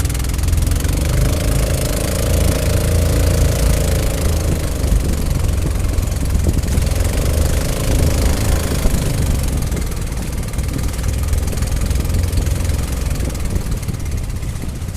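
A boat's motor running, its pitch rising and easing off twice, with a hiss of wind and water over it.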